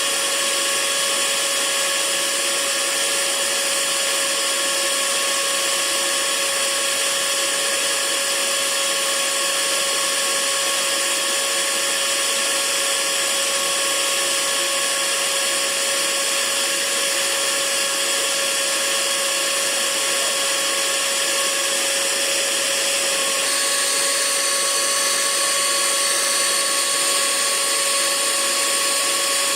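Hair dryer running steadily: an even rush of air with a constant motor whine. The whine shifts slightly in pitch a little past the middle.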